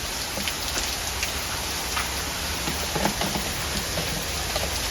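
Steady rain falling, with scattered drops splattering.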